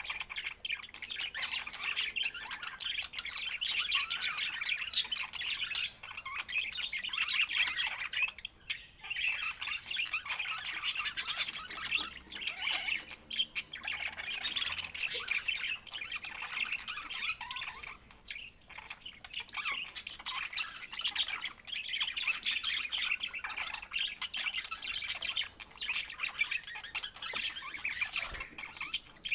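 Budgerigars chattering, with busy overlapping warbles, chirps and squawks that go on almost without a break.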